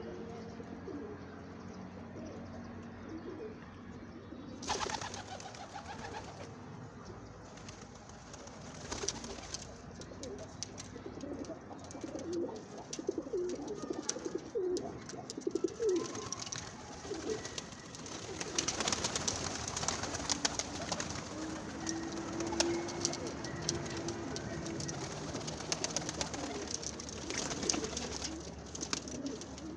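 Captive doves cooing repeatedly in low, rolling notes, with frequent scattered rustling and clicking from the birds moving about.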